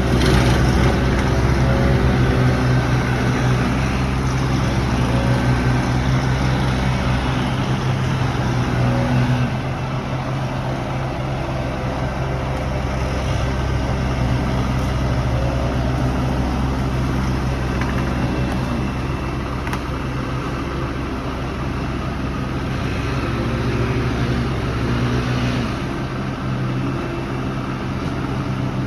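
A large engine running steadily under load, its pitch and level shifting slightly a few times, as from the machinery working on a tree removal.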